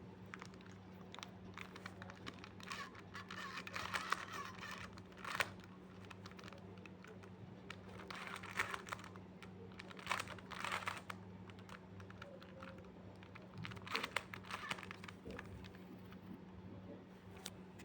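Plastic Rubik's cube faces being turned by hand, faint irregular clicking and clattering in quick runs, over a faint steady low hum.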